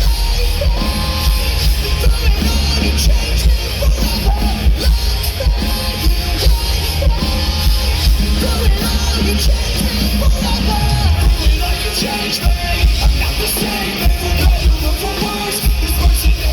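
Live rock band playing loud and heavy: distorted guitars, bass and drums, with some vocals over the top.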